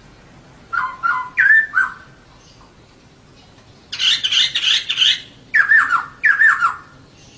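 Female poksay (laughingthrush) calling in short bursts of falling notes. A harsher, higher chattering phrase comes in the middle, and two more falling calls follow near the end.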